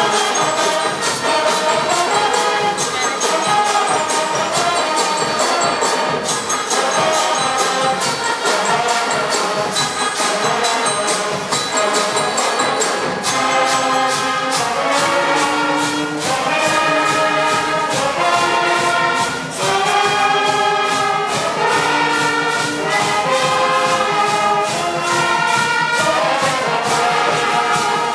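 Music: a band with brass plays over a steady, quick beat. About halfway through it moves into held chords that change in steps while the beat carries on.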